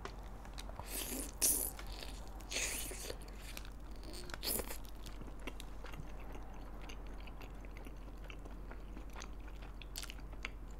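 Close-miked biting and chewing of glazed fried chicken, with a few louder crunchy bites in the first half and then quieter chewing with small wet clicks.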